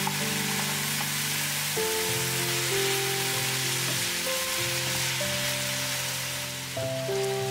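Background music of held, overlapping notes over the sizzle of diced chicken, mushrooms, red onion and tomato frying in a pan as they are stirred.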